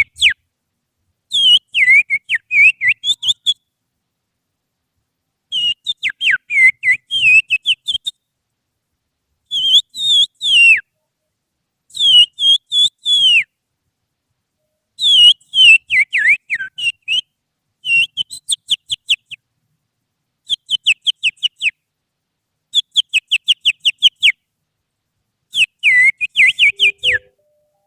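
Finger whistling imitating an oriental magpie-robin's (kacer) song: loud, shrill, bird-like phrases of quick sliding notes, about nine phrases of one to two seconds each, separated by short pauses. It is a provoking call meant to stir caged magpie-robins into singing back.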